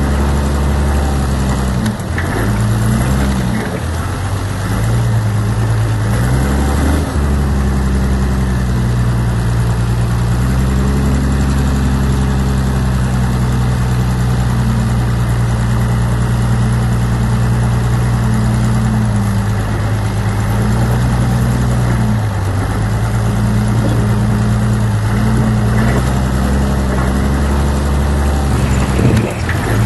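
Heavy diesel engine of earthmoving machinery running steadily, its pitch dipping and picking up again several times as it works under changing load.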